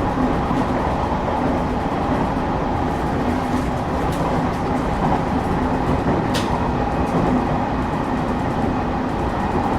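Steady running noise inside a moving train carriage: a dense low rumble from the wheels and running gear with a faint steady hum. A single brief sharp click sounds about six seconds in.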